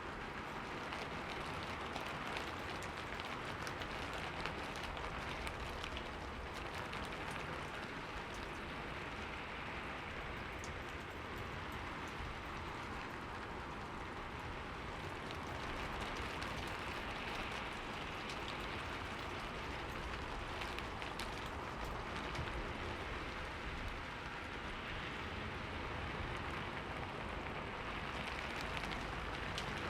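Steady rain falling, with fine pattering drops on a surface.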